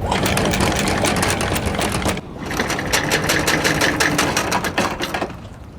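Sailboat's engine running with a rapid, even clatter, briefly dropping out about two seconds in.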